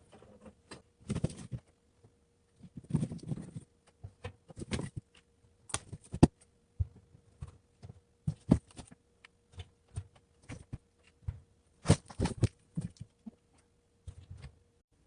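Irregular knocks, clicks and rustles of objects being handled, with a faint steady hum underneath.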